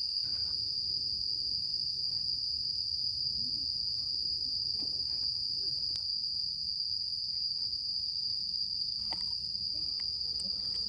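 Crickets or other autumn insects chirring in one steady, unbroken high-pitched drone, with a few faint clicks.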